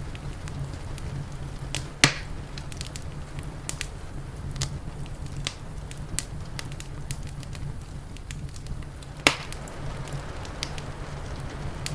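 Wood fire crackling: a steady stream of small snaps with two loud pops, one about two seconds in and one about nine seconds in, over a steady low rumble.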